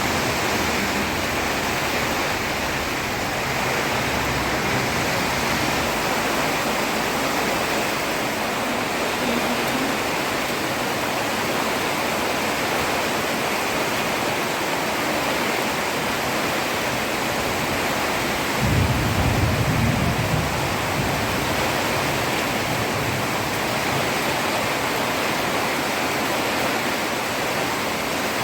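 Heavy rain falling steadily on a road. A brief low rumble rises over it about two-thirds of the way through.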